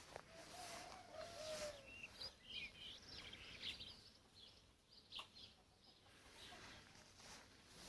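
Faint birdsong. A lower, drawn-out call comes about half a second in, then a run of quick high chirps from small birds around two to four seconds in.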